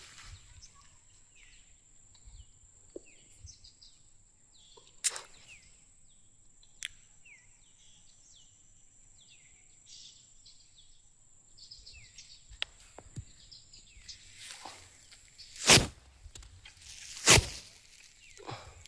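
Outdoor ambience: birds give many short, falling chirps over a thin, steady high-pitched whine. A few sharp knocks cut in, the two loudest near the end.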